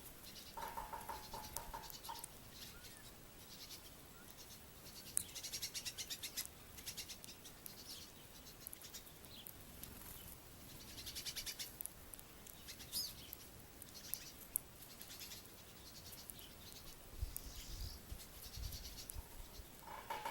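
Small songbirds chirping faintly in short, rapid high trills, in several bouts a few seconds apart. A few low thumps come near the end.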